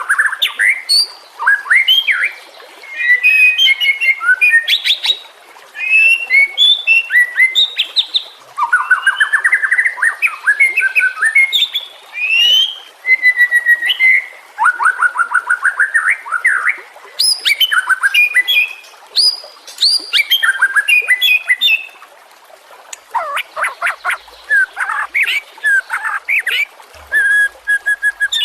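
White-rumped shama (murai batu) singing: a loud, varied run of quick whistled phrases, rapid trills and chattering notes, broken by short pauses between phrases.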